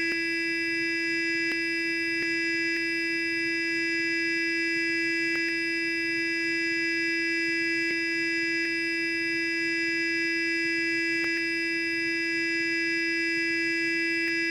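Sonic electric toothbrush running with a steady, even buzz at one unchanging pitch, with a few faint ticks now and then.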